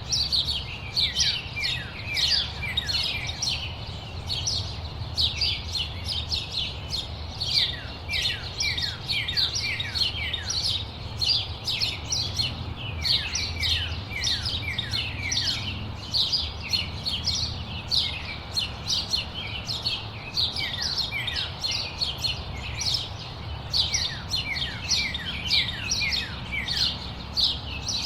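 Birds chirping continuously, a dense run of short, quick notes that each slide downward in pitch, over a low steady rumble.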